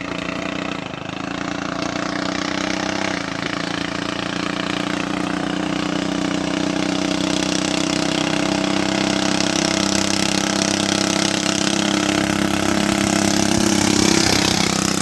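Small gasoline engine running steadily, starting at the outset and growing gradually louder as it comes closer.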